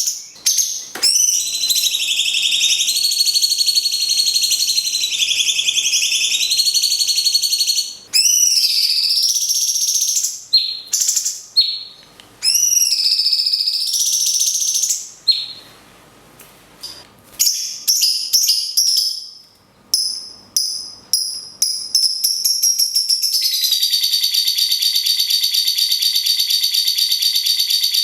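Cucak cungkok and lovebird song: high, rapid chattering phrases that break off and restart. In the last few seconds it settles into one long, fast, even trill, like a lovebird's long ngekek.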